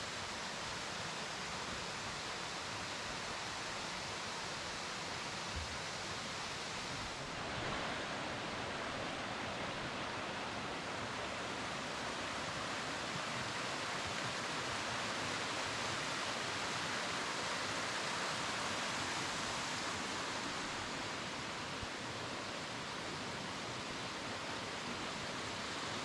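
Steady rushing of a mountain valley stream, changing to a slightly louder, brighter rush about seven and a half seconds in.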